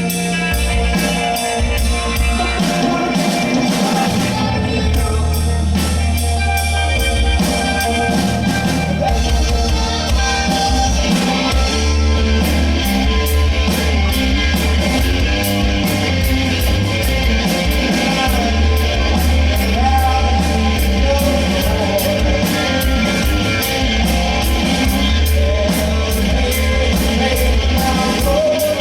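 Live rock band playing with singing, a heavy bass line and a steady cymbal beat that gets busier about halfway through.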